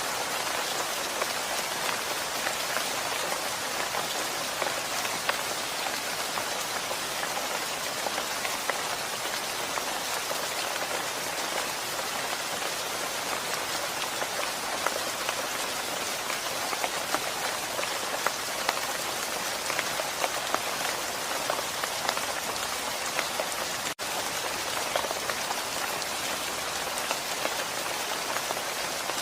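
Steady rain: an even hiss with many individual drops ticking through it. It cuts out for an instant about 24 seconds in, then carries on unchanged.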